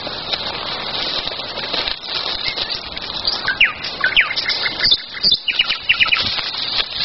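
Wild songbirds singing: runs of short quick chirps and a few sharp falling whistles, over a steady background hiss.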